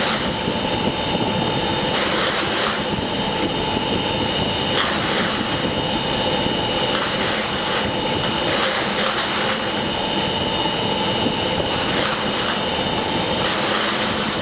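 Large machine (unit No. 1) running steadily under partial load, somewhere between 30 and 60%, with a constant drone and whine and a higher hiss that swells every second or two. This is the abnormal running noise being recorded.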